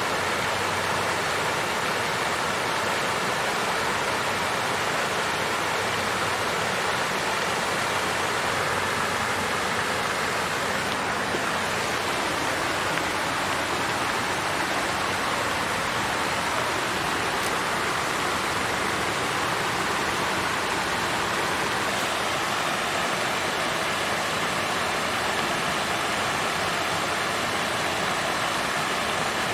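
Water fountain with water flowing and splashing in a steady, even rush.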